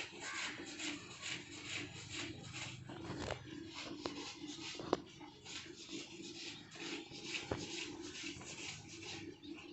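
Fingers rubbing and parting strands of long hair in short repeated strokes, two to three a second, with a few sharp clicks.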